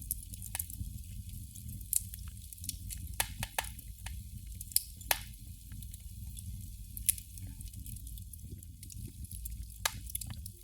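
Candle flame crackling: irregular small ticks and sharp pops, a handful of them louder, over a steady low background rumble.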